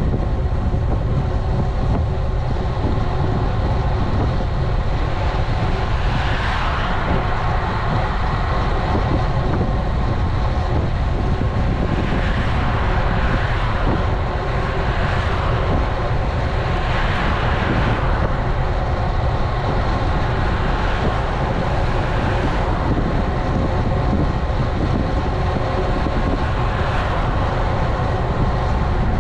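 Wind rumbling over an action camera's microphone on a moving road bike, with road and tyre noise underneath. Several brief hissy swells rise above it along the way.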